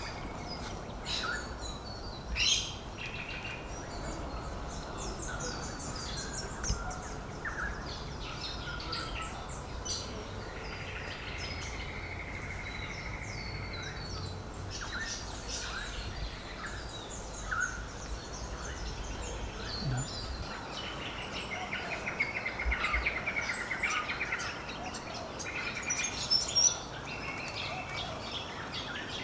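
Several small birds chirping and calling, short high notes coming one after another, with one bird holding a steady trill for a few seconds near the middle and a buzzier trill starting about three quarters of the way through.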